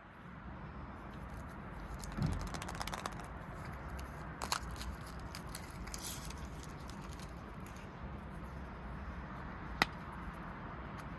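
Faint crinkling and handling noises of small objects, with two sharp clicks, one a few seconds in and one near the end, over a steady low hum.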